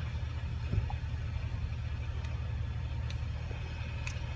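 Engine idling with a steady low hum, and a faint tap about three-quarters of a second in.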